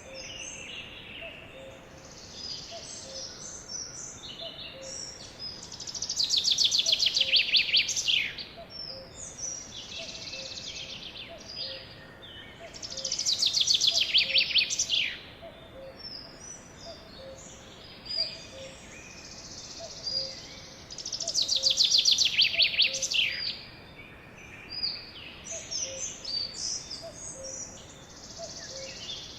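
Songbirds singing: three loud, rapid trills of about two seconds each that sweep downward, roughly seven seconds apart, with shorter high chirps from other birds in between.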